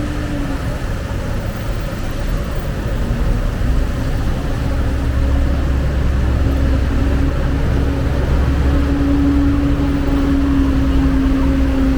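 A motor vehicle's engine running close by with a steady low rumble and hum, getting louder about four seconds in.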